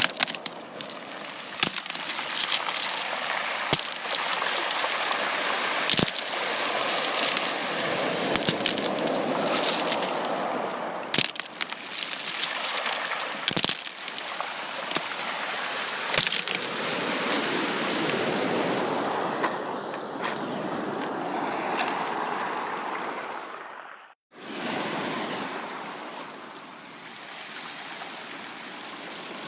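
Sea waves washing on a beach, a steady rushing surf with sharp crackling clicks scattered through it. The sound cuts out completely for a moment about three quarters of the way through, then resumes.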